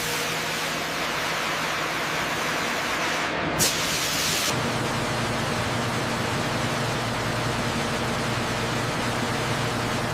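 Steady rushing hiss, broken briefly about three and a half seconds in. About a second later a steady low hum joins underneath. This is typical of an ultrasonic cleaning tank running, its cavitation lifting rust and contamination off aircraft components.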